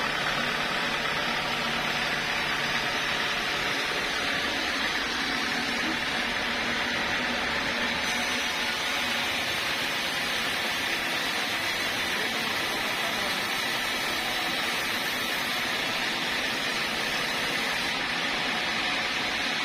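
Sawmill saw running steadily: an even, unbroken mechanical noise.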